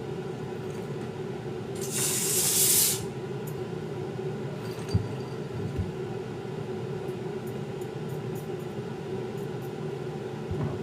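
A hiss lasting about a second, about two seconds in, over a steady low hum, followed by two soft knocks.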